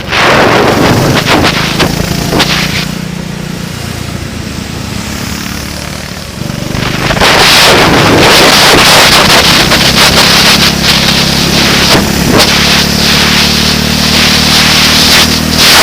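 Heavy wind buffeting on a vehicle-mounted camera's microphone, over an engine running at a fairly steady pitch. The buffeting gets louder and more continuous about halfway through.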